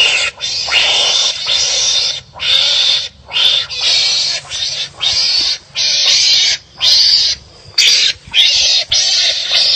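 Wild animal calls: harsh, raspy barking calls repeated about once a second, each lasting under a second, as of animals squabbling.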